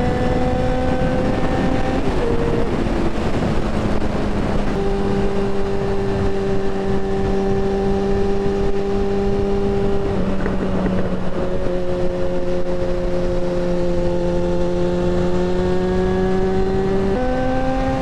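Yamaha XJ6N's 600 cc inline-four engine running steadily under way, with a rushing noise of wind and road. The engine note steps down about two seconds in, eases lower again around ten seconds, and steps back up near the end, as with gear changes and throttle.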